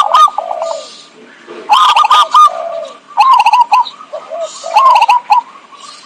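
Zebra dove (perkutut) calling: a quick run of short, clipped cooing notes repeated four times, each phrase under a second long, played as a lure call.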